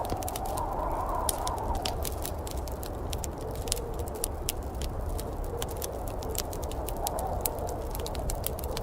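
Log fire crackling, with frequent sharp pops and snaps over a steady low rumble and a wavering mid-pitched whoosh.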